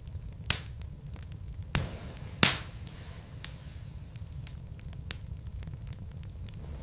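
Burning wood logs in a fireplace crackling: scattered sharp pops, the loudest about two and a half seconds in, with smaller ticks between them over a steady low rumble.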